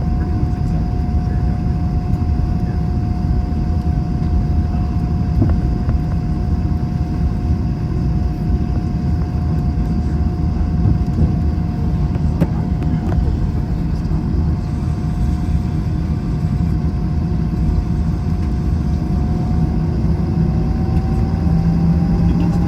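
Steady cabin noise inside an Airbus A321: the jet engines and airflow make a low rumble with a steady whine over it. The whine's pitch rises slightly near the end.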